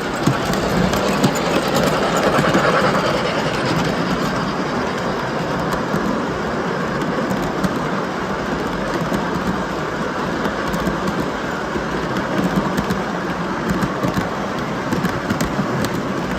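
MTH model of the C&O 2716 Berkshire steam locomotive running on its track: a steady rumble of wheels and motor with scattered light clicks.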